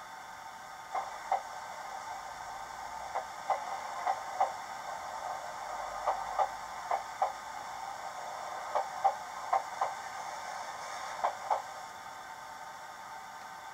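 Simulated wheel clacks over rail joints from a LokSound DCC sound decoder in a Hornby Mk3 DVT model, played through its small speaker: pairs of sharp clicks, a pair every second or two, over a steady faint hiss.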